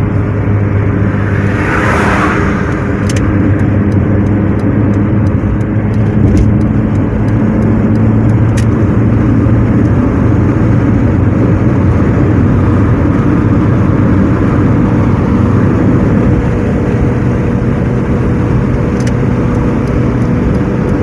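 Car driving along the road, heard from inside the cabin: a steady engine and road-noise drone, with a brief rushing sound about two seconds in.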